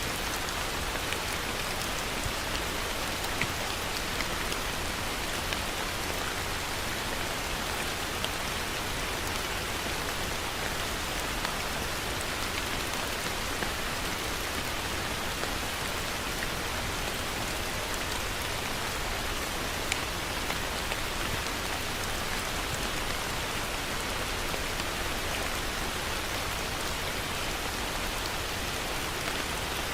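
Heavy rain falling steadily on a surface, an even, unbroken hiss with a few sharper individual drop ticks here and there.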